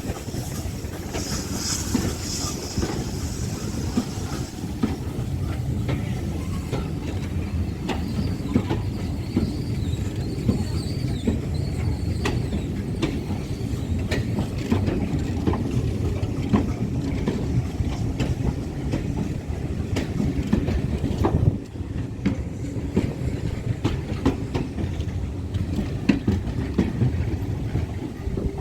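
Passenger train rolling past, its wheels clicking over the rail joints above a steady low rumble. A brief high squeal sounds about a second in.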